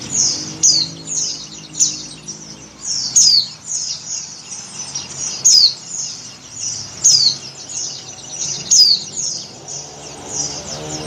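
Female white-eye (pleci) calling over and over in a steady run of short, high chirps that slide downward, several a second, with a louder one about every second and a half. The calls are the kind a female in breeding condition gives to call in a male.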